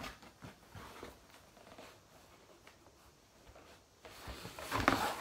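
Soft handling noises of unboxing: faint scattered clicks and rustles, growing into louder rustling and knocks from about four seconds in.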